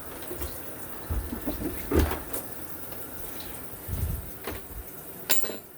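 Delta shower running, a steady spray of water hitting the stall. A few dull knocks come about 2 and 4 seconds in, and a sharp click near the end.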